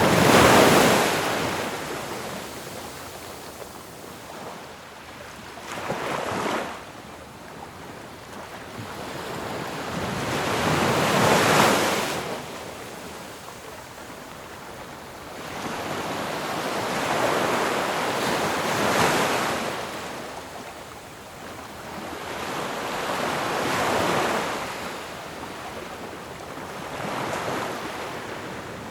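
Ocean waves breaking and washing back in slow surges, about one every five seconds, each swelling to a peak and then fading into a softer rush before the next.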